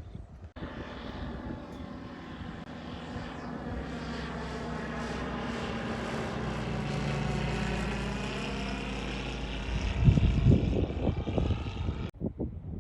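Propeller airplane flying over, its engine drone swelling steadily toward the middle and then easing. Irregular low buffeting on the microphone about ten seconds in, then the sound cuts off abruptly.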